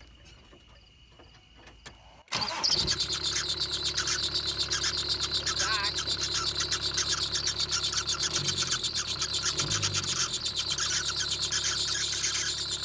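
Kubota turbo diesel in a Ford Ranger starting abruptly a couple of seconds in and then running with a steady, pulsing beat. Its accessory belt is running slack because the alternator bracket has broken.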